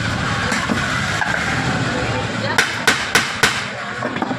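Four quick, sharp hammer taps, the kind struck on a pressure cooker's metal parts during repair, heard over steady background noise and voices.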